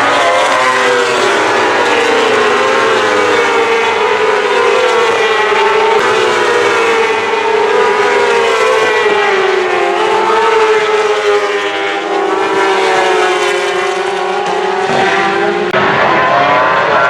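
Racing superbike engines at high revs, several at once, their pitch rising and falling as the bikes accelerate and slow through the corners.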